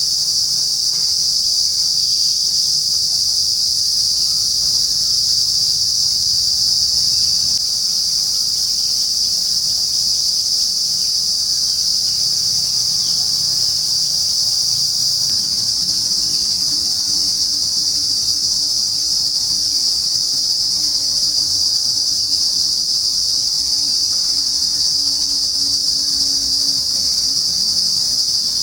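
Loud insect chorus from trees: a steady, shrill, unbroken buzz.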